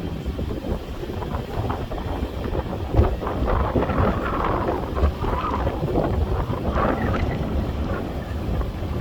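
Wind buffeting the microphone on a sailboat under way, with the rush and splash of water, strongest between about three and seven seconds in.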